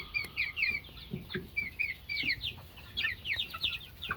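A flock of young growing chickens peeping: many short, high, falling chirps overlapping, several a second.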